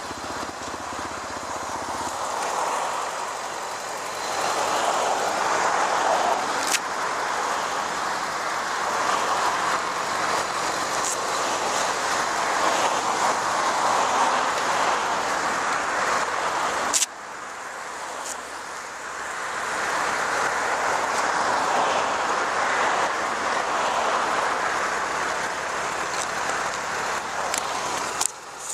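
Road and traffic noise from a moving vehicle: a steady rushing noise that rises and falls, with a few clicks. It cuts abruptly about seventeen seconds in to a similar stretch.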